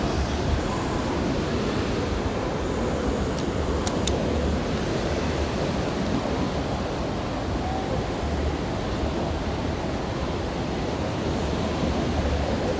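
Steady, loud rushing of water, a dense, even hiss and rumble without breaks.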